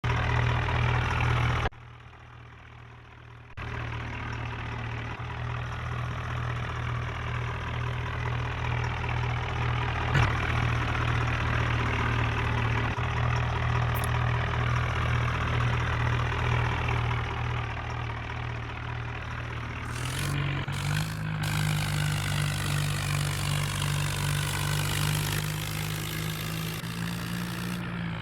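HMT 5911 tractor's diesel engine running steadily, with a short dip in level about two seconds in. Around twenty seconds in its pitch steps up as the engine speeds up.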